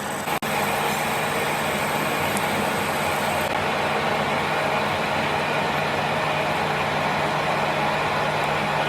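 A machine running steadily with a low hum under a wash of mechanical noise.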